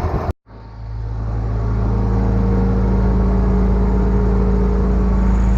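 Train locomotive's engine running steadily in the cab, a low rumble with a steady hum. The sound cuts out briefly just after the start and swells back in over about a second.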